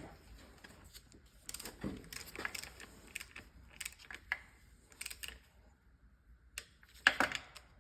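Wrench and socket clicking and knocking on the gearbox housing bolts as they are tightened one after another, with the loudest burst of clicks near the end.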